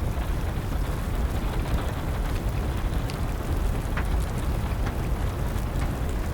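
Wood fire crackling, with sharp pops every second or so, over a steady, low-heavy rush of rain.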